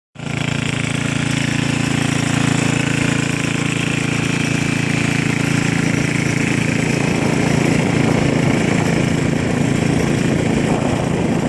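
Small tractor engine running steadily, a constant low engine note with a rattly, noisy edge, starting abruptly at the opening.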